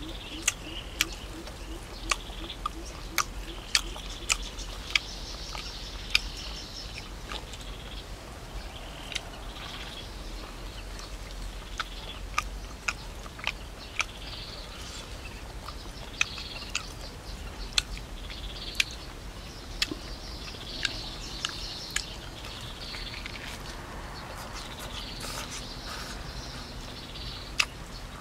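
A man chewing grilled pork close to the microphone, with sharp, irregular smacking clicks, while birds chirp in the background.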